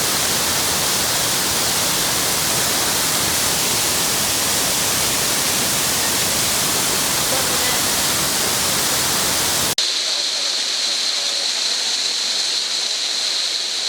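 Waterfall rushing steadily and loudly. About ten seconds in, the sound cuts abruptly to a thinner, hissier rush of water with less depth.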